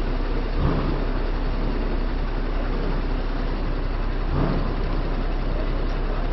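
Heavy truck diesel engine running steadily at idle, with two brief louder swells, about a second in and again near four and a half seconds.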